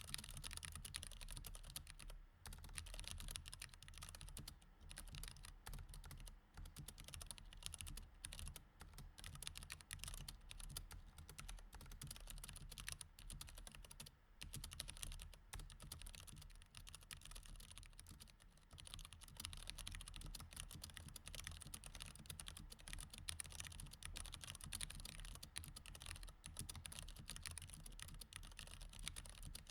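Continuous typing on a mechanical keyboard with Cherry MX Red switches: a quiet, uneven stream of key clicks with a couple of brief pauses, over a faint low hum.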